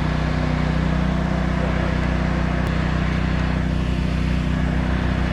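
Engine running steadily, a low even hum.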